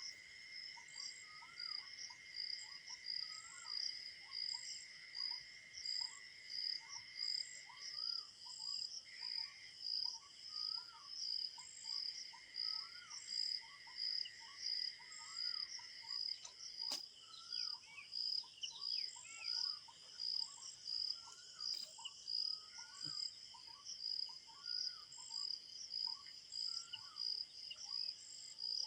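Crickets chirping in a steady rhythm of a little more than one pulse a second, over a continuous insect drone that stops about halfway through. Lower down, many short rising calls repeat throughout.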